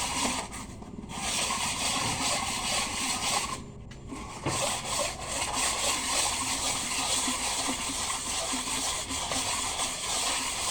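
A truck engine's cylinder head being rubbed by hand on an abrasive flat, lapping its face: a steady scraping that drops away briefly twice, about a second in and about four seconds in. The hand-resurfacing shows whether the head is level and brings out any cracks.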